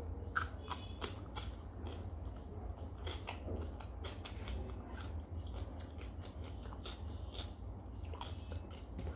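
Close-up biting and chewing of raw cucumber slices: sharp crisp crunches, the loudest in the first second and a half, then steady wet chewing clicks, over a low steady hum.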